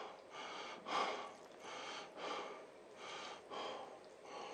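Chewing a thick cube of beef sirloin: soft mouth sounds repeating about every two-thirds of a second.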